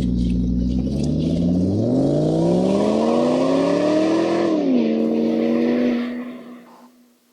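An engine revving: a low rumble climbs steadily in pitch for about two seconds, drops back, holds a steady note, then fades out near the end.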